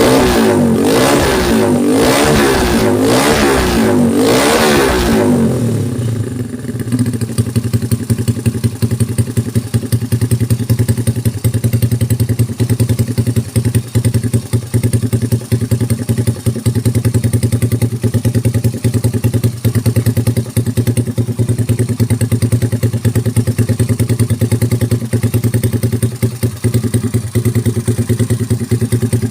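A 130cc Honda Supra motorcycle's four-stroke single-cylinder engine is revved in several quick blips for about the first six seconds. It then drops back and idles steadily with a fast, even pulsing.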